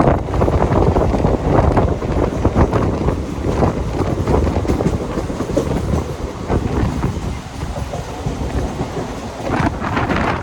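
Mumbai suburban AC fast local train running on the track: a steady rumble with the repeated clatter of wheels over the rails.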